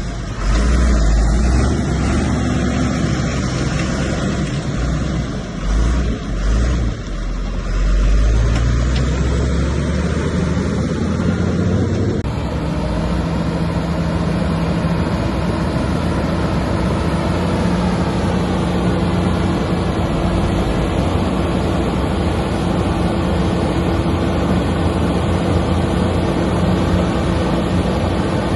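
Diesel engine of heavy earthmoving machinery running under load: a deep rumble that dips and surges a few times, then switches abruptly about twelve seconds in to a steadier running note.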